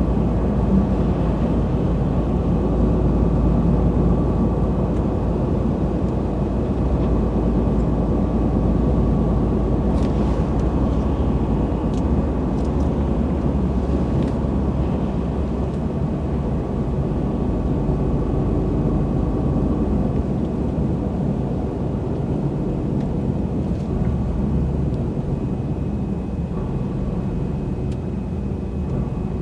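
A truck's engine running with a steady low drone, with a few faint clicks about a third of the way in.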